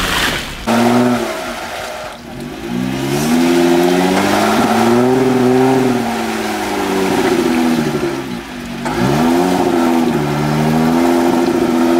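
Jeep Wrangler engine revving in long rises and falls, easing off twice and building again, as the Jeep tries to drive out of a deep mud rut with one wheel sunk in.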